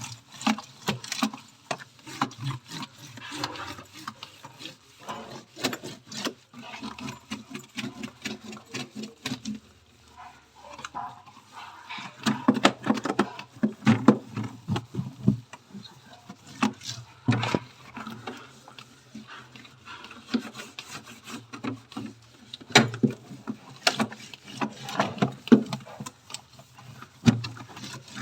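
Scrubbing the inside of a refrigerator: irregular rubbing with many small clicks and knocks.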